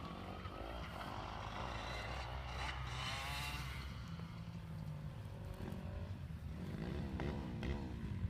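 Motocross bikes running on the track, their engines revving up and down as they ride, with two engines swinging in pitch at once near the end.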